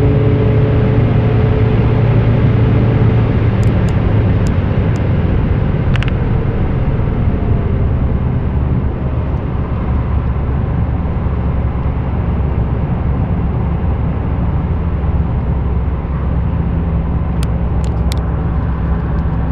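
Maserati Ghibli GT 2.0's twin-turbo V6 with custom exhaust, heard from inside the cabin at high speed with road and wind noise. The engine note drops a few seconds in as the car eases off and slows, then holds at a steady, lower cruise.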